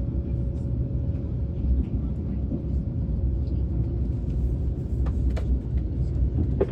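Steady low rumble of a Deutsche Bahn ICE train heard from inside the passenger car, with a few sharp clicks near the end.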